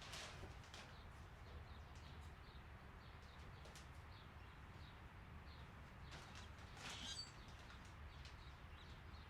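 Near silence: a faint steady low hum with a few faint high chirps, and a brief rustle about seven seconds in.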